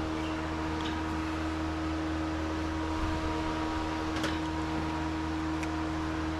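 Steady mechanical hum with a constant pitch, a few faint ticks scattered through it.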